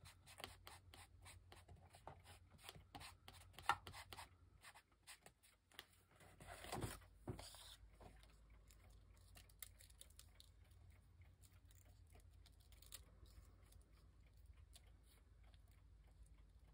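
Faint handling of paper craft pieces on a desk: small taps and rustles as paper flowers and cut-outs are moved about, with one longer paper rustle about seven seconds in, then mostly quiet.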